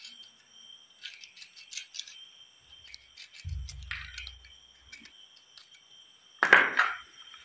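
Crickets chirring steadily at night, with small clicks and rattles of cooking gear being handled, a low thud-like rumble midway and one louder clatter near the end.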